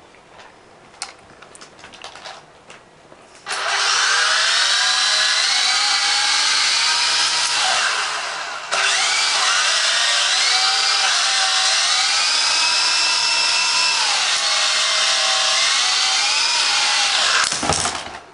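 Syma S022G RC helicopter's small electric motors and rotors whining, the pitch rising and falling as the throttle is worked. The whine starts suddenly a few seconds in, after a few faint clicks. It sags and breaks off briefly about halfway, starts again at once, and stops near the end.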